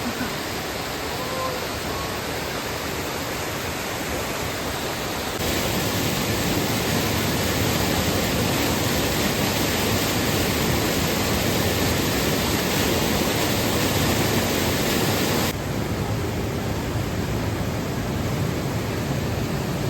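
Bracklinn Falls waterfall rushing as a steady, loud hiss of falling water. It turns abruptly louder and brighter about five seconds in and drops back about fifteen seconds in.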